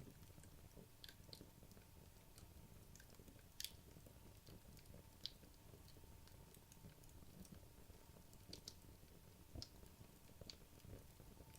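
Wood logs burning in a fireplace: faint, sparse crackles and small pops over a low, soft rumble of the fire, with a couple of sharper pops about a third of the way through.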